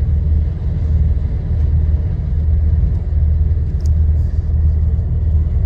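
Steady low drone of a truck on the move, heard inside the cab: engine and road rumble with no change in pace.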